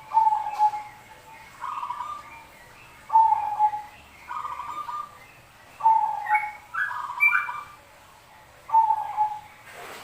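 Zebra doves (perkutut) cooing: a string of short phrases about one every one to one and a half seconds, some pitched higher than others.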